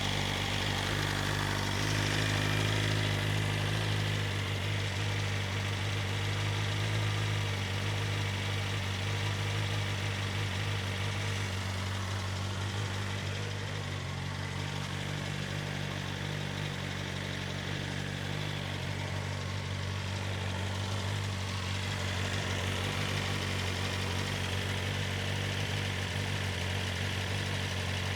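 BMW S1000RR's inline-four engine idling steadily through its stock Akrapovic exhaust, warming up after a cold start.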